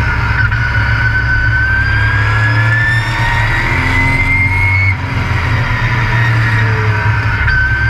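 A race truck's engine under hard acceleration, recorded on board, with a steady low rumble and a high whine that climbs in pitch with speed. About five seconds in, the pitch drops sharply, as at a lift or gear change, and near the end it starts climbing again.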